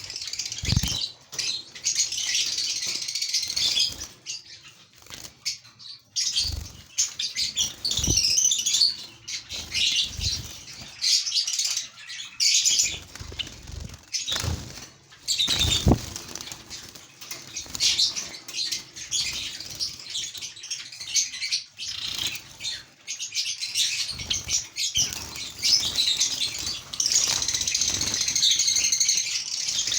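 A flock of lovebirds chattering with dense, high chirps, with wing flutters and a few soft thumps.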